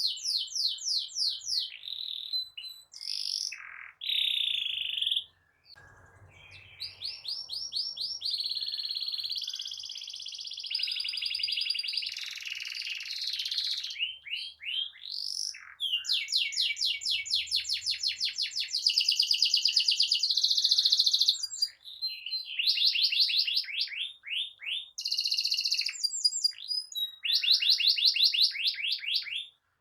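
Domestic canary in full song, singing long rolling trills: phrase after phrase of fast repeated notes, switching from one trill to the next with only brief pauses.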